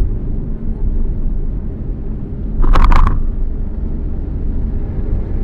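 Steady low rumble of a car on the move, with a short, loud burst of sound a little past halfway through.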